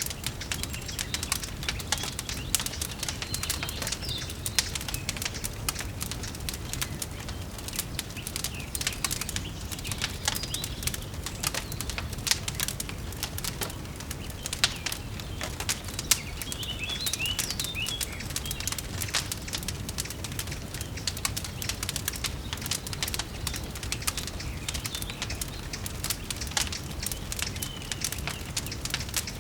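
Wood fire crackling in a fireplace, with irregular sharp pops over a low steady rumble. A few short bird chirps come through now and then.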